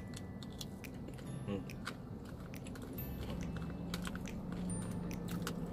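Close-up chewing of a mouthful of rice with crisp fried potato bits, with many small crunchy clicks, while a plastic spoon scoops in a plastic takeaway box.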